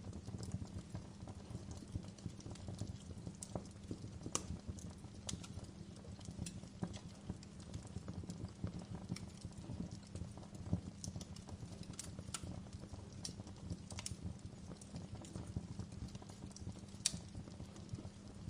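Wood fire in a fireplace crackling: irregular sharp pops and snaps over a low steady rumble, with a louder pop about four seconds in and another near the end.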